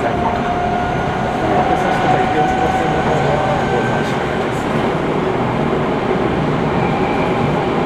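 Seibu 6000 series electric train running, heard from inside a passenger car: the rumble of wheels on rail, with the whine of its Hitachi GTO-VVVF inverter traction equipment as thin tones that rise slowly in pitch, and a higher tone coming in near the end.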